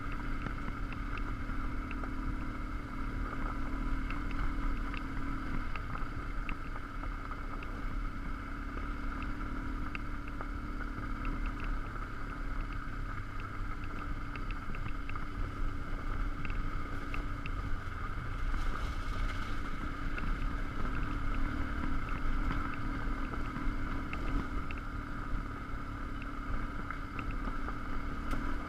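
BMW R1150GS Adventure's boxer-twin engine running steadily as the bike rides over gravel, with wind noise on the microphone and scattered light ticks.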